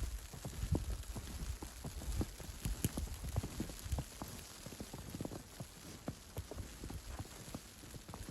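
Footsteps crunching in fresh snow, an irregular run of short low crunches about two a second, fading somewhat in the second half, over a steady hiss.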